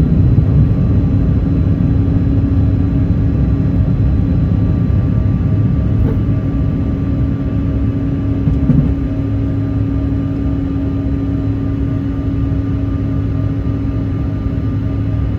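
Airliner engine and airflow noise heard inside the passenger cabin: a loud, steady low rumble with a steady droning hum.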